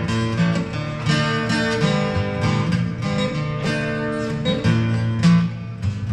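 Guitar strumming chords in a steady rhythm: the opening of a song, played live before the vocal comes in.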